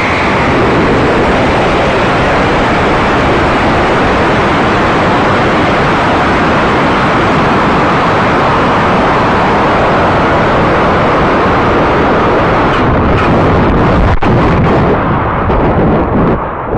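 Continuous loud rushing roar of a high-power model rocket launch, steady throughout with a couple of brief dips near the end.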